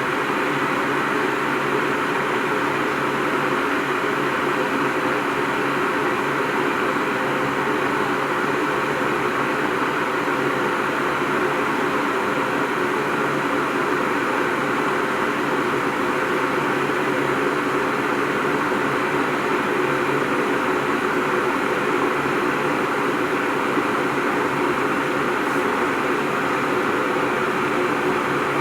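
IRIT IR-1360 electric kettle heating a nearly full load of water, a steady rushing hiss as the water works up toward the boil.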